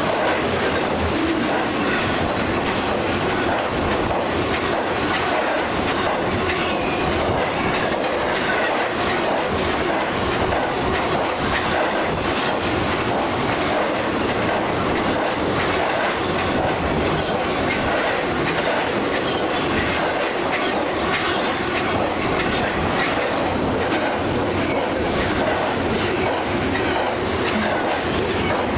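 Double-stack intermodal freight train passing close by at speed: the steel wheels of the container and trailer cars keep up a steady, dense rolling clatter on the rails, with a few brief high-pitched squeaks.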